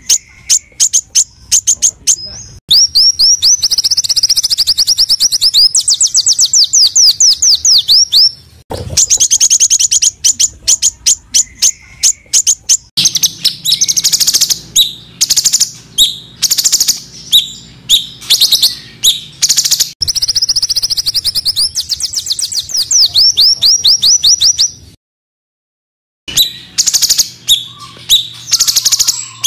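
Small songbird singing a dense, harsh rapid-fire song: fast strings of sharp chips alternating with runs of quick high down-slurred notes, repeated in phrases. The sound cuts out completely for about a second some 25 seconds in, then the song resumes.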